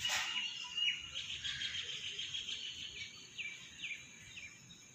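Small birds chirping outdoors: short repeated chirps, with a few quick falling chirps about three to four seconds in. A brief scuff of handling noise at the very start.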